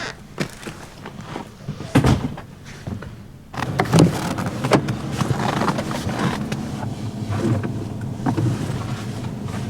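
A few knocks and a thump, then from about three and a half seconds in a vehicle running steadily with a low hum.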